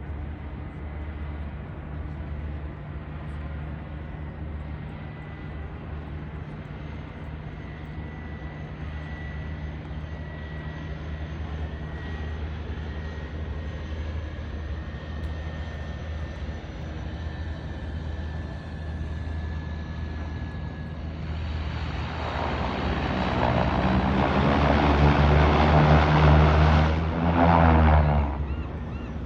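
Seaplane's propeller engine droning steadily, then swelling to a loud roar for several seconds near the end before dropping back.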